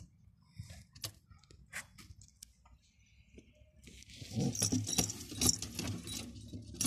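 Domestic pigeons scuffling: scattered light taps, then about four seconds in a dense flurry of rustling and clattering, as of wings flapping, lasting about three seconds.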